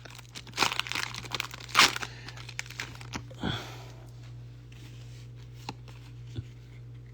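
Foil wrapper of a Pokémon card booster pack crinkling and tearing as it is ripped open, mostly in the first two seconds, followed by a few faint handling clicks.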